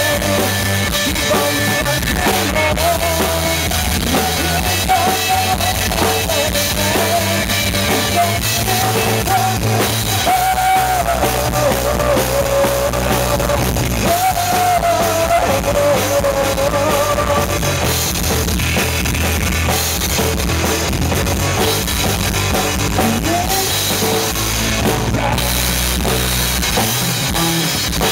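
Live rock band playing an instrumental stretch of a song: a drum kit, bass and guitars, with a sustained melodic lead line wavering over them.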